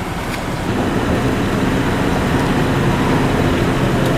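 Steady low mechanical running noise, most likely the car's engine idling at the car wash pay terminal, growing slightly louder, with a faint click about a third of a second in.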